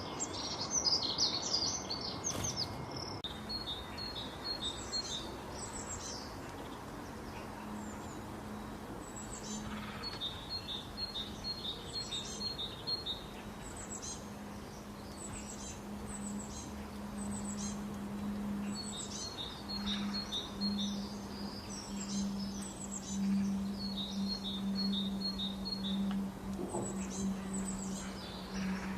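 Small birds chirping and calling throughout, with repeated quick runs of short, high notes. A steady low hum sits underneath and grows louder in the second half.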